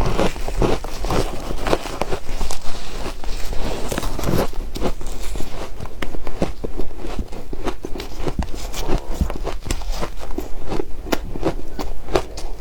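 Soft ice and crushed ice being chewed close to the microphone: quick, irregular crunches, several a second.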